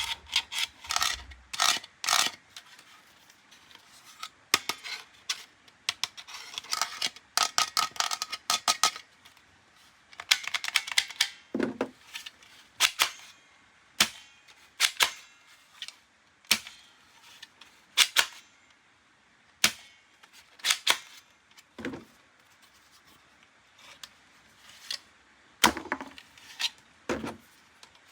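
Hard plastic toy pieces being handled: irregular sharp clicks and snaps, with bursts of crinkly packaging rustle.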